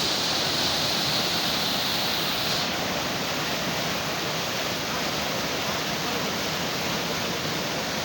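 Steady rushing noise with a high, even hiss on top that stops abruptly about two and a half seconds in.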